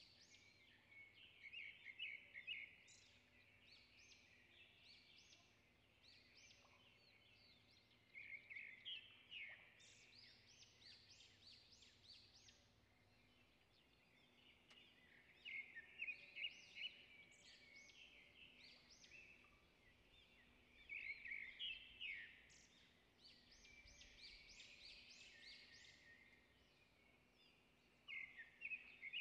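Faint birdsong: phrases of rapid, high chirps lasting a second or two, coming back about every six seconds.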